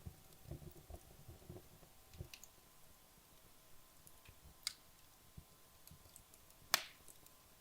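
Wood fire in a fireplace burning low late in its burn-down, with only occasional crackles. A few soft low knocks come in the first two seconds, a sharp crack about halfway through, and the loudest pop near the end.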